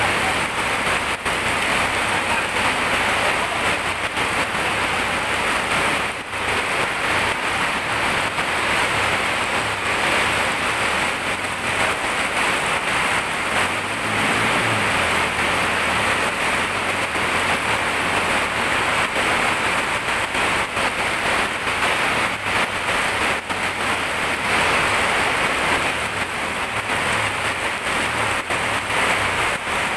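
Heavy rain pouring down steadily in a tropical downpour, a continuous hiss of rain on the wet road.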